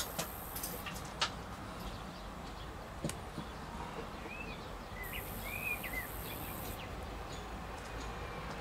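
Steady outdoor background noise with a few light clicks and taps in the first seconds. A small bird chirps a few times, short and high, around the middle.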